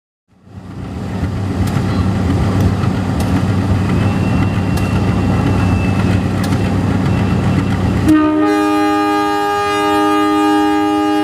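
Diesel locomotive of the CC 201 class (a GE U18C) passing close by, its engine giving a loud, even low rumble with a few sharp clicks. About eight seconds in, its horn sounds one long, steady multi-tone blast.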